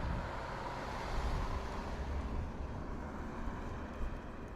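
A car passing by on the street, its tyre and engine noise swelling and then fading away.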